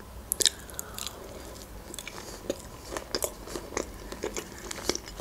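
Close-miked eating sounds of a person biting into and chewing a slice of peach: a string of irregular small clicks and smacks.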